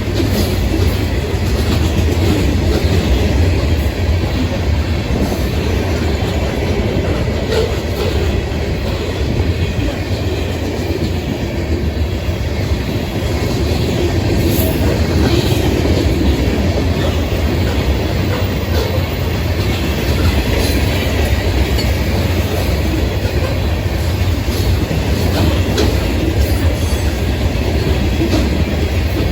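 Freight train cars rolling steadily past at close range, a continuous low rumble with wheels clacking and rattling over the rails.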